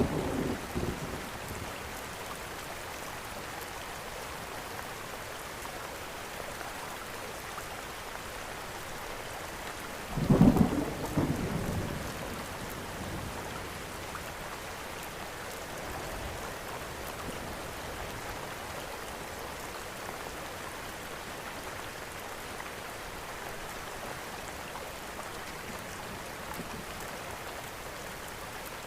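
Steady rain falling, with a low thunder rumble that swells about ten seconds in and dies away over roughly two seconds; the tail of an earlier rumble fades out at the very start.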